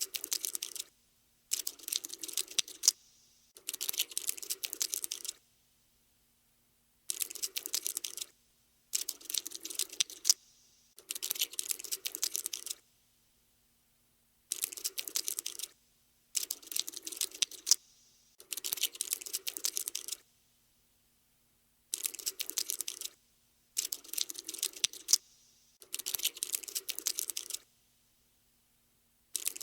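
Cockroach scuttling sound effect: rapid, dry skittering clicks like tiny legs on a hard surface. They come in about a dozen bursts of one to two seconds each, with silent gaps between.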